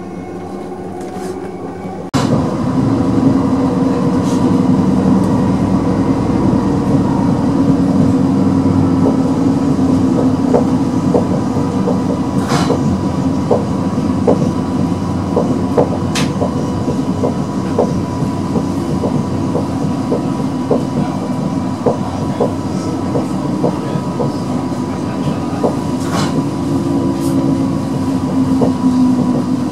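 Class 333 electric multiple unit heard from inside the carriage, running at speed: a steady rumble with a constant whine and regular clicks from the wheels on the rails. The noise jumps suddenly louder about two seconds in.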